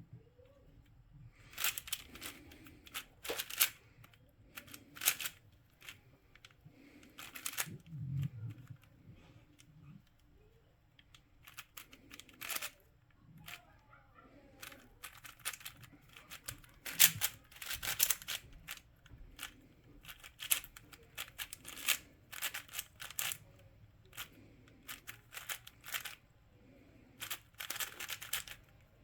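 Plastic puzzle cube being turned by hand: rapid runs of clicking, clacking layer turns broken by short pauses.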